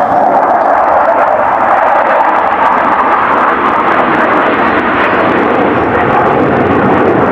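USAF Thunderbirds F-16 fighter jets passing overhead: a loud, steady jet roar that sounds like thunder.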